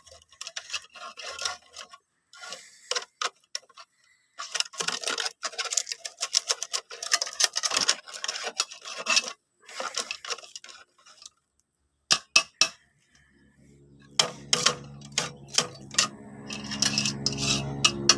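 Hard clinking and rattling of parts being handled, then, about thirteen seconds in, the coconut-grating machine's motor starts and runs with a steady hum that grows louder toward the end.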